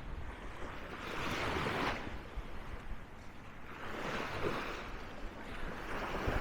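Small sea waves breaking and washing up the sand in a hissing surge, rising and falling about every two to three seconds.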